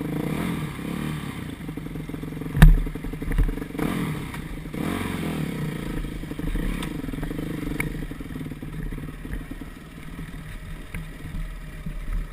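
Motocross bike engine running steadily, with a sharp knock about two and a half seconds in and a couple of smaller knocks just after.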